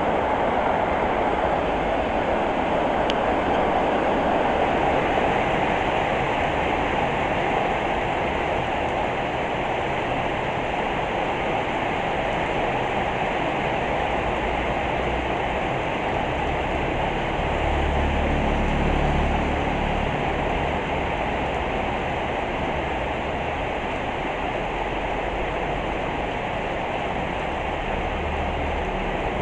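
Heavy rain falling steadily, a dense even hiss. A low rumble swells for a few seconds past the middle.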